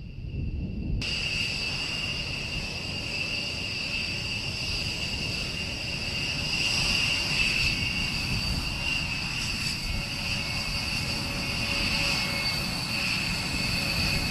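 Jet aircraft engines running with a steady high-pitched whine over a rushing noise, cutting in abruptly about a second in.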